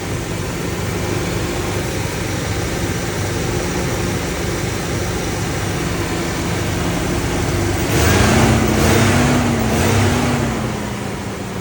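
2004 Toyota Tacoma's engine idling steadily after a cold start. About eight seconds in it swells louder for a couple of seconds, with a rush of noise and a slightly wavering tone, then settles back.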